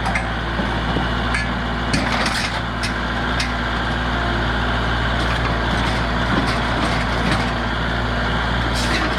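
An engine idling steadily in the background, with a handful of sharp metallic clanks and knocks from work on the mower's hood and latch.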